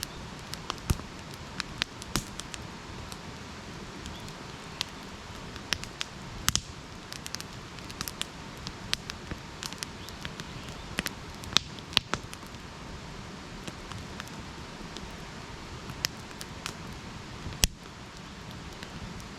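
Campfire burning: wood crackling and popping at irregular intervals over a steady low rush of flame, with a few louder pops.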